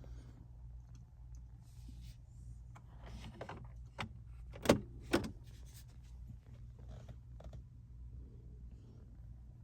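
Soft clicks and two sharp knocks about halfway, from the car's fittings being worked, over a steady low hum.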